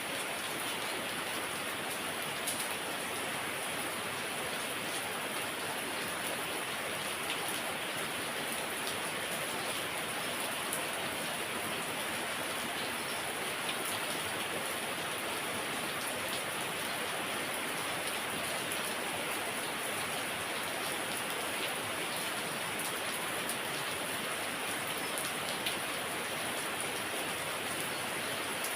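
Heavy rain falling steadily: a dense, even hiss with scattered sharper ticks of individual drops hitting a surface.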